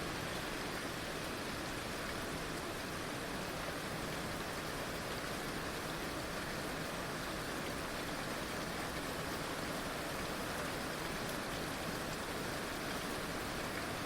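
Heavy rain falling steadily, an even, unbroken hiss of many drops with no single drop standing out.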